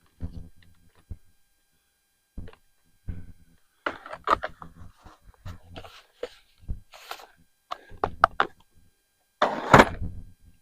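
Assorted gear being handled and set down while a storage container is emptied: scattered knocks, clatters and thuds at uneven intervals, with the loudest thud near the end.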